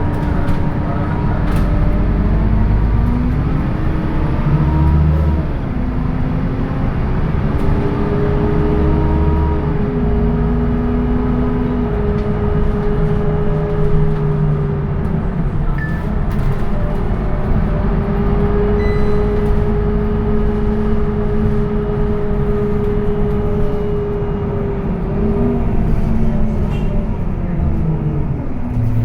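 Scania K230UB bus's diesel engine and ZF automatic gearbox pulling away. The engine pitch climbs and drops back several times in the first dozen seconds as the gearbox shifts up. It then holds a steady pitch while cruising, and falls off near the end as the bus slows.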